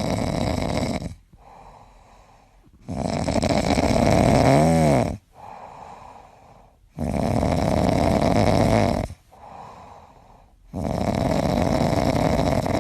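Loud snoring in a steady rhythm: four long rasping snores, each about two seconds, with quieter breaths between them.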